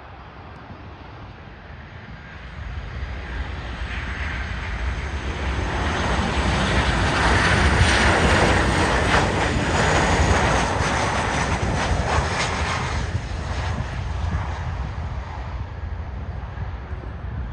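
Airliner passing over on its landing approach, its engine roar swelling for several seconds, peaking near the middle, then fading away.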